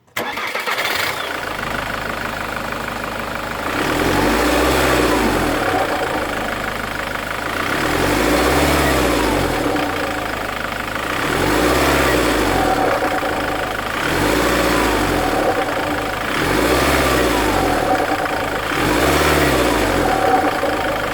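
Ford Mondeo Mk3 2.0 TDCi diesel engine starting, then revved and let back to idle about six times, with a sucking noise as the revs fall each time the throttle is released. The noise remains even after a new turbo and EGR valve.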